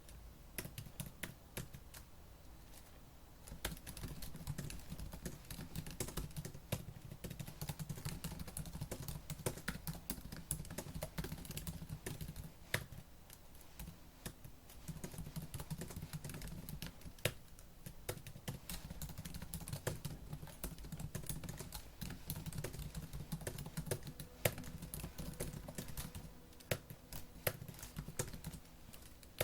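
Fast typing on a laptop keyboard: a rapid, continuous patter of key clicks, lighter and sparser for the first few seconds, with brief slower stretches before it picks up again.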